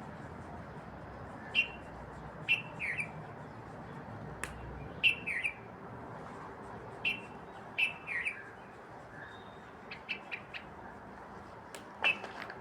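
Birds chirping in short, repeated calls that fall in pitch, with a few sharp clicks among them.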